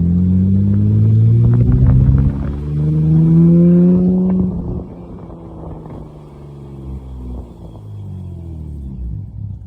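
Nissan GT-R engine accelerating hard, heard from inside the car. The engine pitch climbs, drops at a gear change about two seconds in, then climbs again. About four and a half seconds in the throttle comes off and it settles to a quieter, low cruise.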